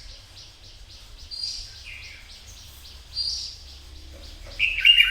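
Red-whiskered bulbuls singing: short bright notes repeat about every two seconds, and a louder warbled phrase comes near the end. A fast, even ticking runs beneath them.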